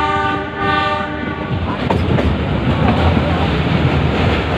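Metre-gauge passenger train's horn sounding one long blast that stops about a second and a half in, over the steady low rumble and clatter of the train running along the track.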